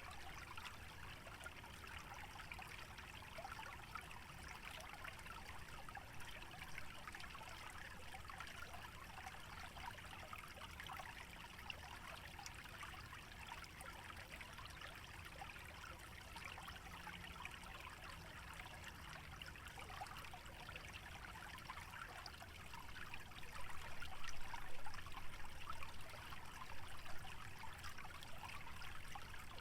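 Small stream trickling: a steady, fine patter of running water that grows louder and more uneven for the last several seconds.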